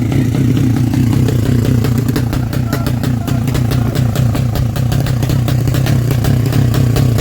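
Honda Karisma motorcycle's single-cylinder engine running steadily, with a rapid even pulse.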